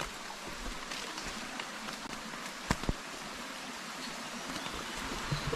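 Steady rush of running stream water. Two sharp knocks come close together a little before halfway through.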